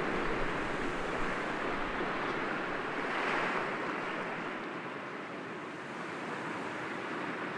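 Gentle sea waves breaking against rocks, a steady wash of surf that swells about three seconds in and then eases off.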